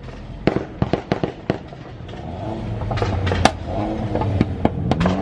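Car exhaust pops and bangs: a string of sharp cracks from the exhaust, with the engine revving underneath from about two seconds in and rising in pitch near the end.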